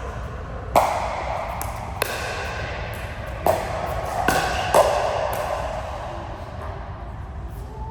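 A run of five sharp strikes, each ringing on briefly, coming irregularly about one a second before dying away, as in a rally of hits during play.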